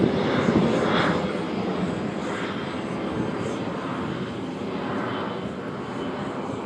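R46 subway train running past on the track, a steady rumble with faint rhythmic wheel beats that fades as the train moves away.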